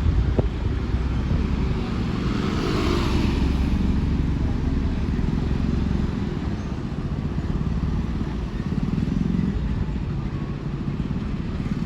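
Heavy truck engine rumbling low and steady as it moves slowly past, with a brief hiss about two to three seconds in.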